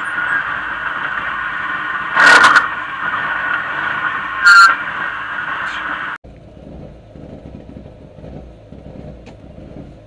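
Rally car engine running, heard inside the stripped, roll-caged cabin, with two short loud bursts over it. About six seconds in, the sound drops abruptly to a quieter low rumble.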